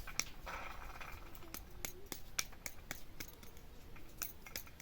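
A run of irregular sharp clicks or snips, several a second, with a short rustle about half a second in.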